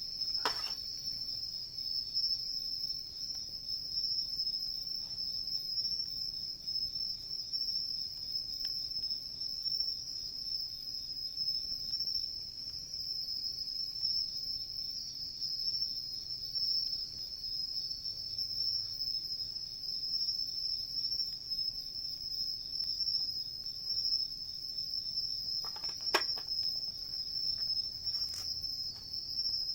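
A steady, high chorus of insects trilling without a break. A few sharp crackles from the wood fire cut through it: one just after the start and two near the end.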